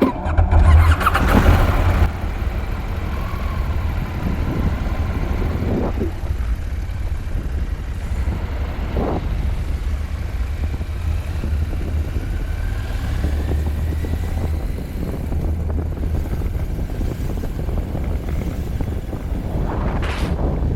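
KTM 790 Adventure motorcycle's parallel-twin engine running under way. It comes in suddenly at the start, is loudest for the first two seconds, then settles to a steady drone.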